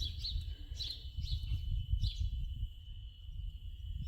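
Small birds chirping in short, repeated calls, several in the first two seconds and one more near the middle, over a steady thin high hum and a low rumble of wind on the microphone.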